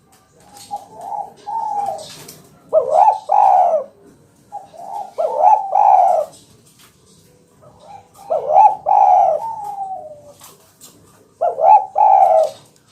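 Spotted dove (tekukur) cooing in about five phrases a few seconds apart; each phrase is a short run of burry coos rising and falling in pitch.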